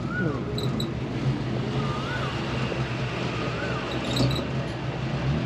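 A vehicle engine running steadily, with a short rising-and-falling whistle repeating about every second and a half to two seconds.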